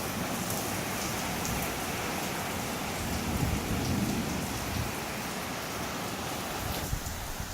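Heavy thunderstorm rain pouring steadily, blown in by wind, with a low rumble swelling about halfway through.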